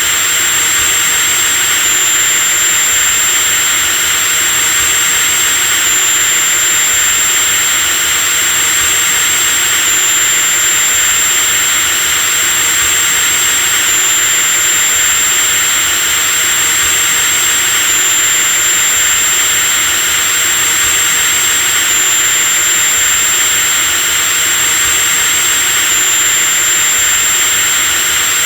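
Electric drill motor running steadily at constant speed: a continuous high whine over a hiss. The whine shifts slightly in pitch about every four seconds.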